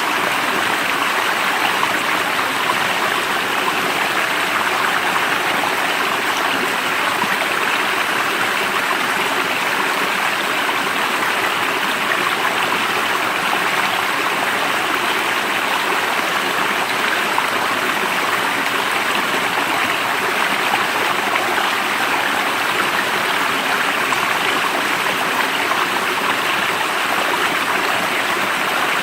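Steady rush of running water, like a stream or brook flowing, with an even level throughout.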